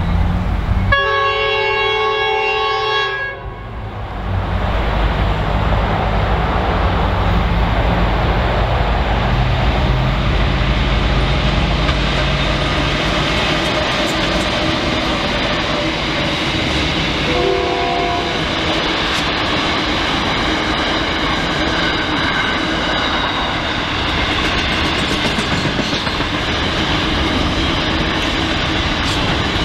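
Pacific National NR-class diesel-electric locomotives at the head of a container train sound a multi-note horn for about two seconds as they approach, then run through at speed. The container wagons follow in a long steady rumble and clatter of wheels on rail, with a brief second tone about halfway through.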